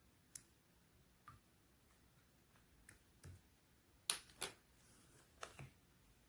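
Light-blue clear slime being played with by hand, giving scattered small sharp pops and clicks, about eight of them, the loudest pair about four seconds in.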